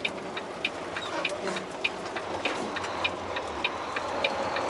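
A truck's turn-signal flasher ticking in the cab, about three even ticks a second, over the low hum of the idling diesel engine.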